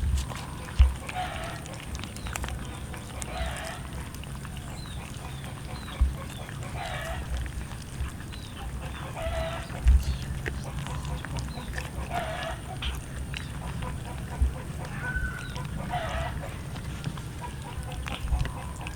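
Chickens calling over and over, a short call every second and a half or two, with a few dull thumps between the calls.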